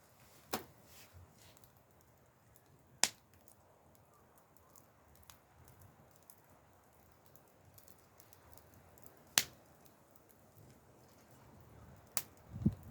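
Wood fire crackling: a few sharp pops several seconds apart over a faint background. A low rumbling noise comes in near the end.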